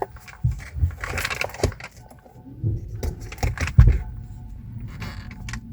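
A run of sharp clicks and knocks with a brief hiss about a second in and a heavy thump near four seconds, followed by a low steady hum.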